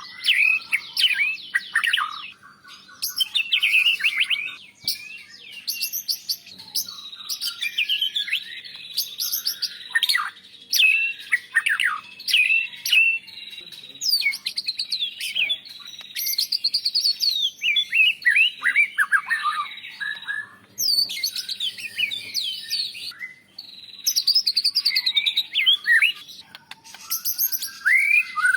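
White-rumped shama (murai batu) singing a long, varied song of whistled glides, rapid trills and chirps, phrase after phrase with short pauses between.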